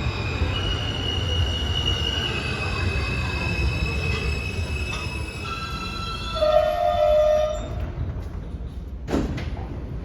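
New York City subway train slowing into the station, steel wheels squealing in several high tones over a low rumble as it brakes. A brief stronger squeal comes about two-thirds of the way through, the train sound fades as it comes to a stop, and a single knock is heard near the end.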